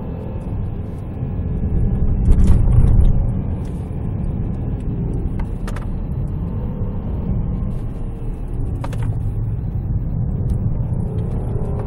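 A 2014 Range Rover Sport's supercharged 5.0-litre V8 and its road noise heard from inside the cabin while driving, swelling louder about two to three seconds in, with a few short clicks.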